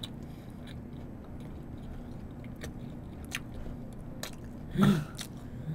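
Chewing and biting into a cheese-filled toast close to the microphone, with small crisp clicks from the crust about once a second. A brief louder sound comes near the end.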